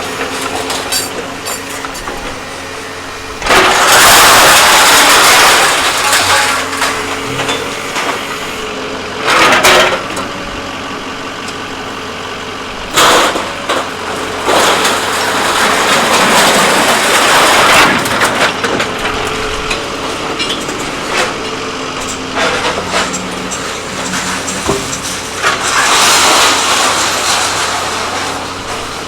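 The engine of a heavy machine runs steadily throughout. Over it come loud, rushing, noisy bursts of a few seconds each, about five of them, some short and some longer.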